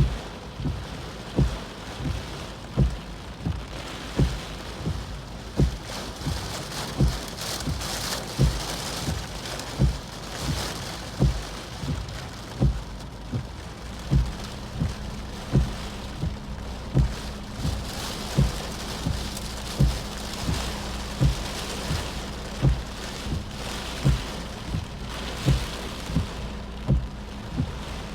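Heavy typhoon rain hissing steadily, with a regular low thump about once a second running through it.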